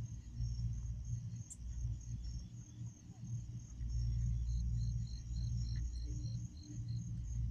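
Night insects, crickets or katydids, chirping in steady, evenly spaced pulses, with a second, lower chirping joining about halfway through. Under them runs a low, uneven rumble that is louder than the insects.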